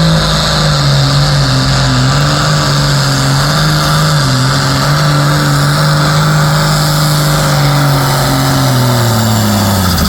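A pulling tractor's engine running hard at high revs under load. Its pitch holds high with small wavers, then falls away near the end as the engine winds down.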